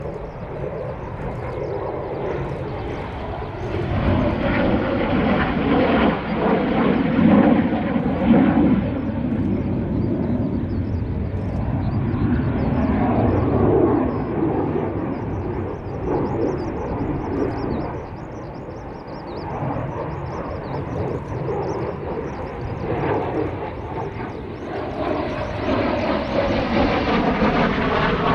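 Fixed-wing aircraft engine noise, a continuous rumbling roar that swells about four seconds in, eases past the middle, and builds again near the end as the plane moves past.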